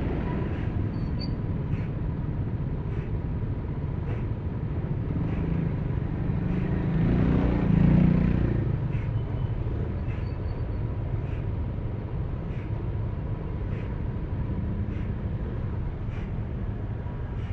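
Yamaha Aerox V3 scooter's single-cylinder engine running on the move, under steady road and wind noise. A louder, deeper rumble swells and fades about seven to eight seconds in.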